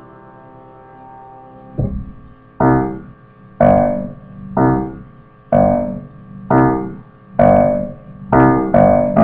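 Piano played solo: a held chord dies away, then notes or chords are struck about once a second, each ringing and fading, quickening near the end.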